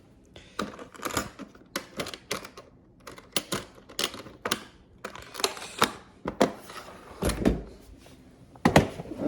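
Irregular clicks, taps and knocks of a refrigerator's inverter compressor control module and its plastic housing and connectors being handled and fitted by hand. There is a heavier thump about seven seconds in and a quick cluster of clicks near the end.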